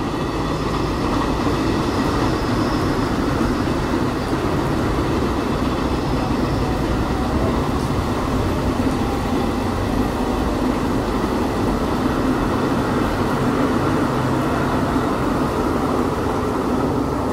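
Freight train of container flat wagons rolling away along the track, its wheel rumble dying out into a steady hiss.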